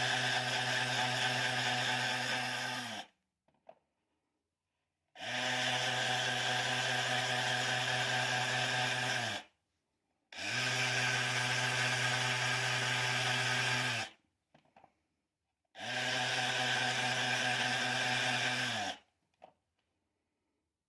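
A small handheld electric power tool's motor runs in four bursts of about three to four seconds each, with short pauses between them. At the end of each burst the motor spins down, its pitch falling as it is switched off.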